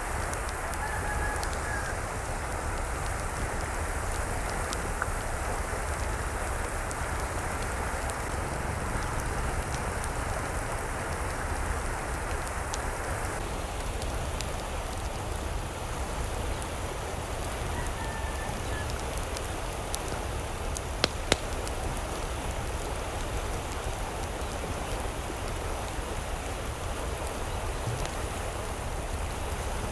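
Steady rain falling, an even hiss of drops whose tone shifts abruptly about halfway through. A couple of brief chirps come through it, and two sharp ticks follow a few seconds later.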